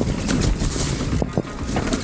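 Downhill mountain bike riding over a dirt trail: wind buffeting the camera mic, knobby tyres rolling and the bike rattling with frequent short knocks over bumps.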